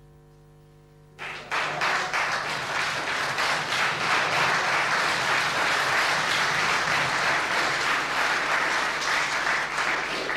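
Audience applause, starting suddenly about a second in and holding steady; before it there is only a faint low hum.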